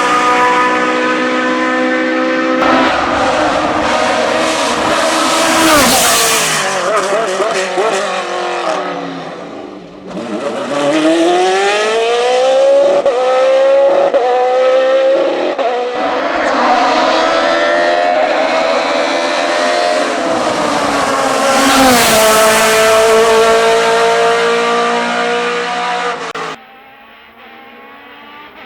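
Racing car engines at high revs on hillclimb runs: the pitch climbs in steps through quick upshifts, falls on downshifts and braking, and climbs again. The sound drops suddenly to a much quieter level near the end.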